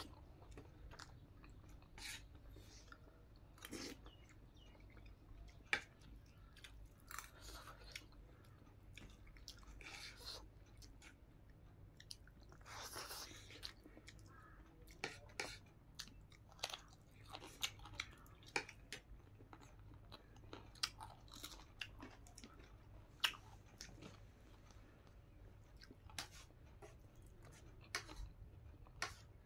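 A person chewing a mouthful of rice and cooked greens eaten by hand: faint, irregular wet mouth smacks and clicks, with a few sharper clicks.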